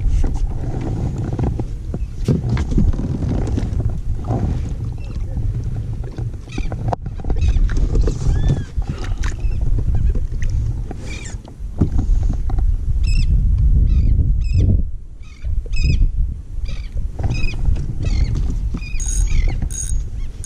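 Steady low rumble of wind and water around a kayak on open water. In the second half, short high-pitched bird calls repeat every second or so.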